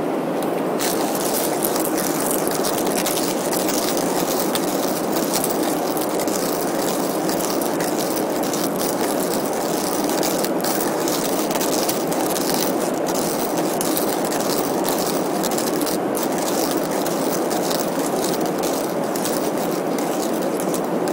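Hario hand burr grinder crunching coffee beans, a dense irregular crackle that starts about a second in, over the steady drone of an airliner cabin.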